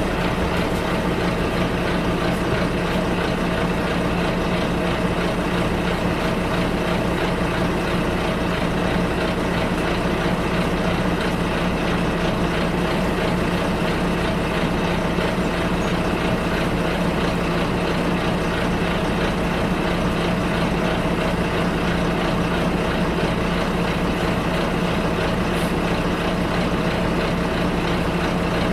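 Bus engine running steadily with a constant low hum, heard from inside the bus cabin.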